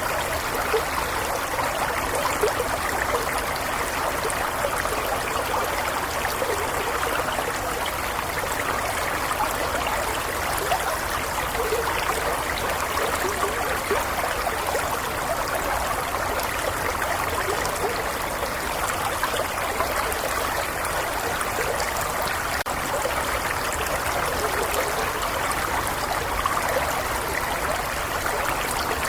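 Small stream flowing steadily over stones, a continuous babbling and trickling of water.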